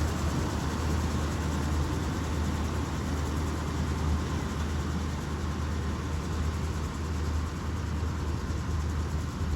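Tractor engine and round baler running steadily under load, a continuous low drone with an even hum, heard from inside the tractor cab.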